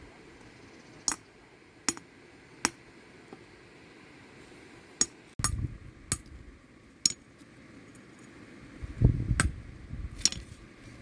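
A series of about nine short, sharp taps, hard objects striking one another at an uneven pace, with a couple of duller low thuds in between.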